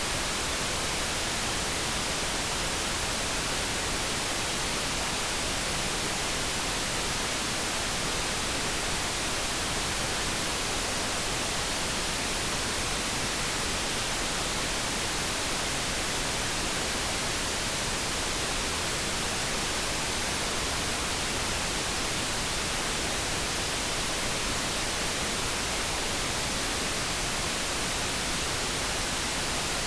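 Steady generated light brown noise: an even, unchanging hiss with no kettle tone standing out.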